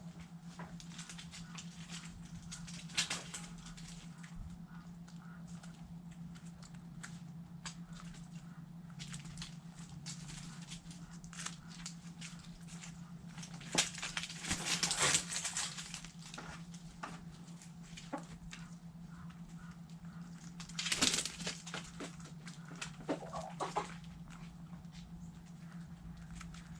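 Backyard chickens pecking at food scraps: many quick taps and clicks, with louder scratching rustles about 14 seconds in and again near 21 seconds, over a steady low hum.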